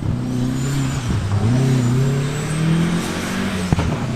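Classic rally car engine revving and pulling, its pitch dipping and then climbing again, with one sharp crack near the end.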